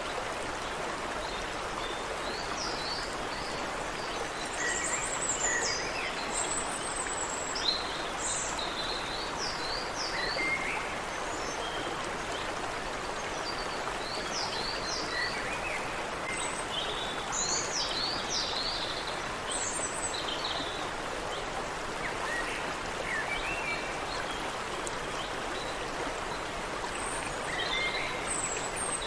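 A creek running steadily with a continuous rush of water, and several small birds singing over it in short, quick chirps and trills at intervals throughout.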